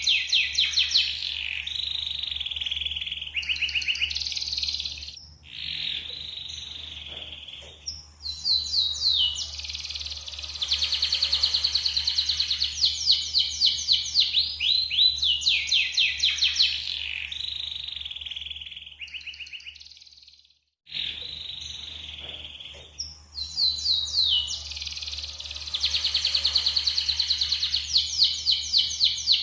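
Yellow domestic canary singing long phrases of fast trills and rolling notes, with short pauses between phrases. The sound cuts out completely for a moment about two-thirds of the way through.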